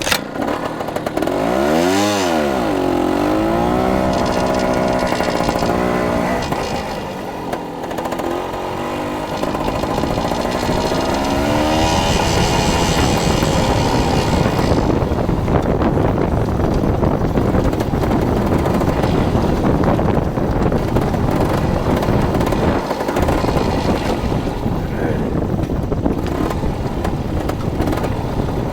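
Dirt bike engine revving up and down repeatedly over the first dozen seconds, then running steadily at speed.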